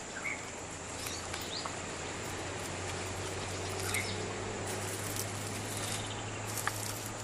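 Outdoor ambience: a steady high insect drone with a few short bird-like chirps over a low steady hum.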